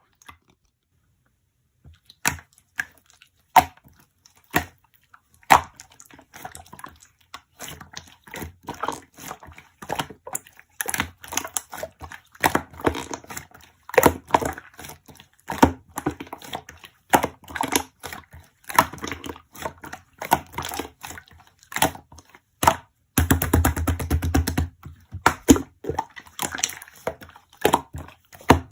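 Slime being worked by hand, making a run of sharp clicks, pops and crackles that grows denser after the first few seconds, with a dense rapid crackle lasting about two seconds near the end.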